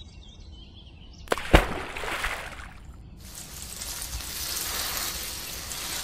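A couple of sharp clicks about a second and a half in, then water trickling from a small toy watering can onto wet sand.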